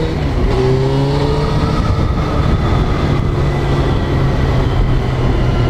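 Motorcycle engine running under way, its pitch rising gently in the first second or two, over a steady rush of noise.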